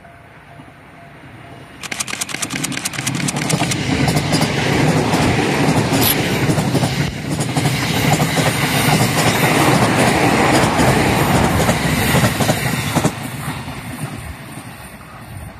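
An 11-car JR East E217 series electric train passes close by at speed. The noise rises suddenly as the front arrives, with wheels clacking over the rail joints, and the loud running noise holds for about eleven seconds. It then drops sharply as the last car passes and fades away.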